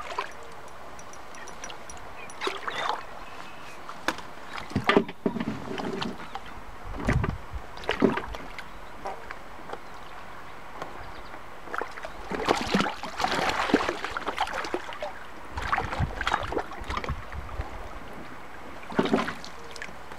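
Irregular splashing and sloshing of water at the boat as a hooked catfish is brought up to the surface, in uneven bursts every few seconds.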